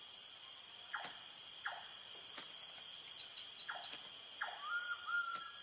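Night-time rainforest insect chorus: a steady, high-pitched cricket drone, with several short calls that drop in pitch. A held whistle-like tone comes in near the end.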